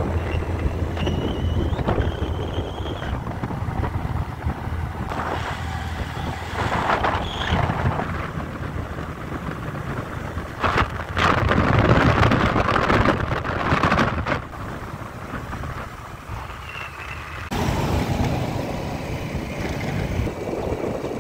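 Vehicle driving along a road: steady engine and road rumble with wind buffeting the microphone, growing louder for a few seconds in the middle.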